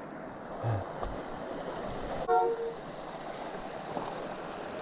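Steady rush of flowing creek water, with a couple of dull knocks from the fat bike in the first second. About halfway through comes a click and then a short, flat-pitched squeal.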